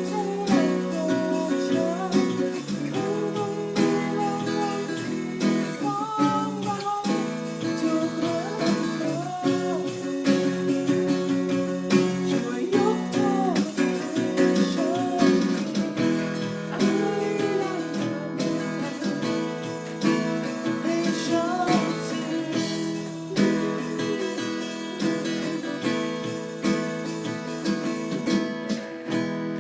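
Music played on acoustic guitar, strummed chords under a melody line that slides up and down between notes.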